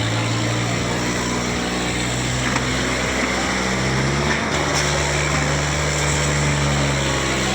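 Tractor diesel engine running steadily, its note shifting higher about four seconds in.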